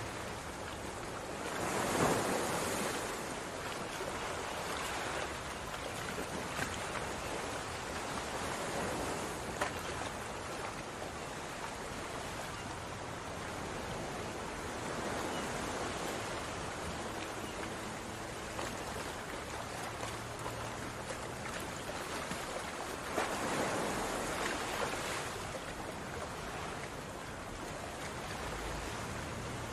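Chicken and turnip pieces sizzling in an oily masala in a pot while being stirred, a steady frying hiss that swells louder about two seconds in and again about three-quarters of the way through, with a few faint spoon ticks.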